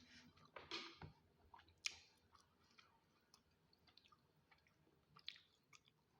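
A person chewing food close to the microphone: soft wet mouth clicks with a few sharper crunchy bites, the loudest about a second in, about two seconds in and near the end.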